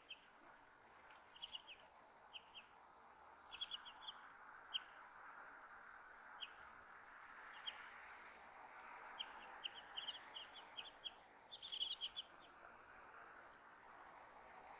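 Small birds giving short, sharp chirps, singly and in quick runs of several, with a busy cluster about twelve seconds in, over a faint steady hiss.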